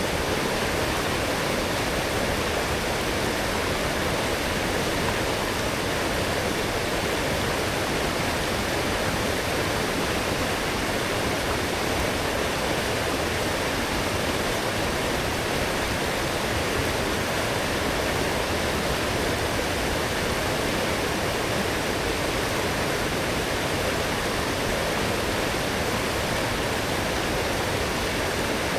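A strong forest stream, swollen after heavy rain, rushing steadily over its bed: an even, continuous water noise with no breaks or single splashes.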